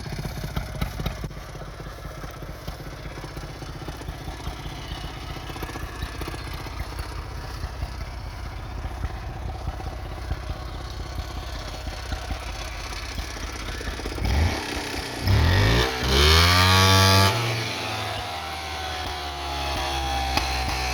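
Polaris Trailblaster 250 ATV's two-stroke single-cylinder engine idling unevenly through its exhaust. About fifteen seconds in it is revved twice, a short blip and then a longer rev, before dropping back to a steadier idle.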